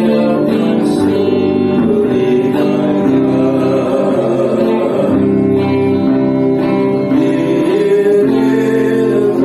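Worship song: singing held over strummed acoustic guitar chords, the notes changing every second or so.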